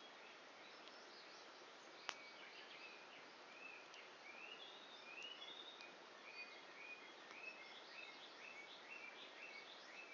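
A wood fire burning low toward embers gives a faint steady hiss and one sharp pop about two seconds in. Small birds chirp repeatedly over it, in quick series of short calls during the second half.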